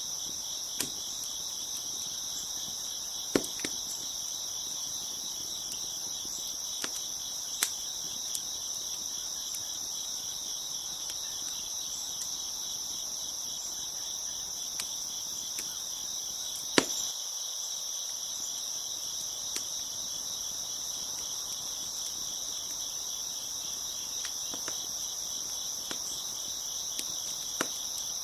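Crickets chirping steadily, with a few sharp pops from a crackling wood fire, the loudest about three seconds and seventeen seconds in.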